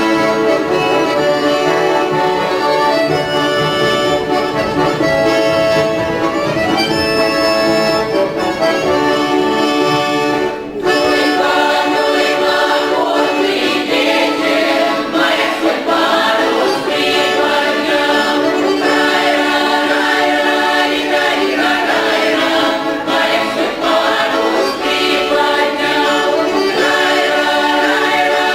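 Accordion playing a Russian folk tune alone for about ten seconds. After a brief break, a folk choir comes in singing with the accordion accompanying.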